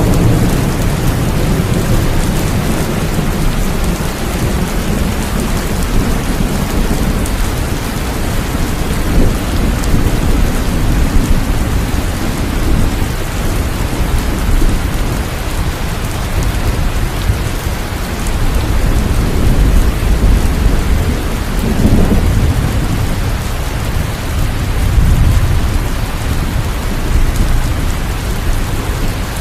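Steady heavy rain with low rolling thunder that swells several times.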